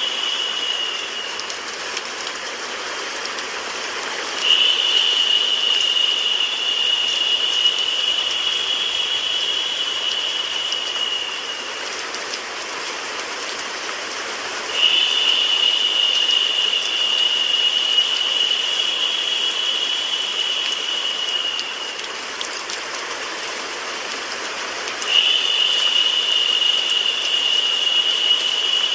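Steady rain and white noise, an even hiss. A high, narrow tone comes in sharply about every ten seconds, holds for about seven seconds and fades, in a repeating loop.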